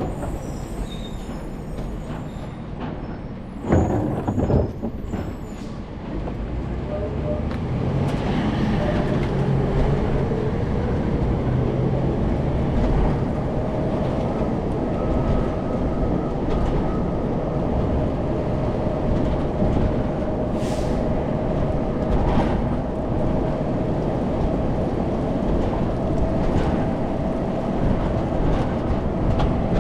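Rear-loader garbage truck's diesel engine and drivetrain running, with two short loud bursts about four seconds in; the truck then gets under way, its pitch rising into a steady whine as it travels.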